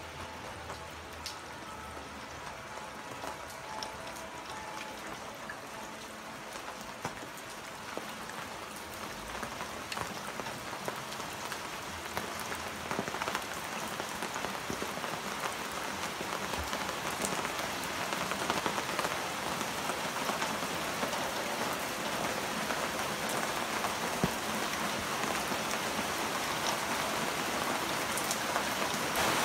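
Heavy rain pattering steadily, growing gradually louder as the downpour strengthens, with scattered sharper drop taps.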